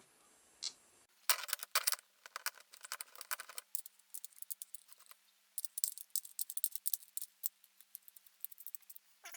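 A metal skate tool's socket clinking and rattling on the kingpin nut of a skateboard truck as the nut is unscrewed: two runs of rapid small metallic clicks, one from about a second in to three and a half seconds, the other from about five and a half seconds to the end.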